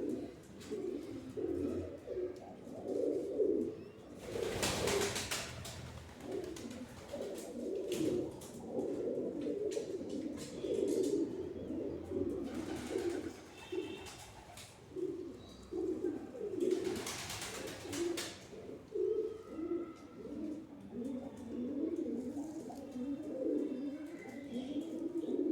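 Several pigeons cooing continuously, their low coos overlapping. Two bursts of rustling noise come through, about four seconds in and again about seventeen seconds in.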